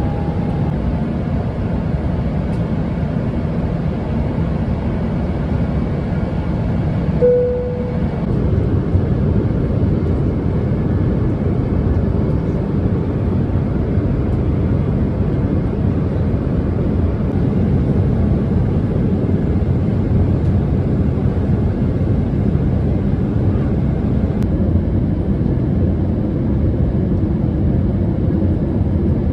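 Steady, loud airliner cabin noise inside a Boeing 777-300ER, a dense low rush of engine and airflow. A short single tone sounds about seven seconds in.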